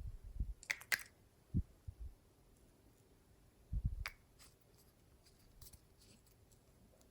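Glossy slime being pressed and kneaded by hand: a handful of soft, low squelching thuds, with a few sharp crackly pops and clicks about a second in and again about four seconds in.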